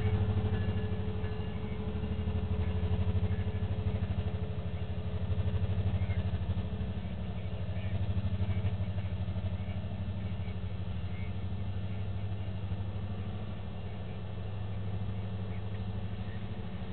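Freight train rolling past at close range: a steady low rumble with a faint steady whine above it. The level swells and dips every few seconds as the locomotives and then the autorack cars go by.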